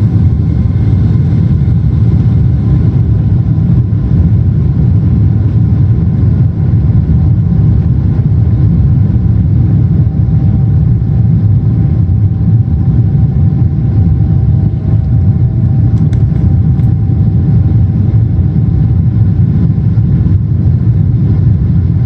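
Steady cabin roar of a Boeing 777-200ER in flight, heard from inside the cabin: the engine and airflow noise of its two General Electric GE90 engines, deep and unbroken, with a few faint steady hums above it.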